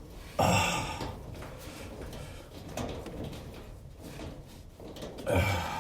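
Dryer sheet-metal panel and screws being handled during reassembly: two short scraping clatters, one about half a second in and one near the end, with faint handling noise between.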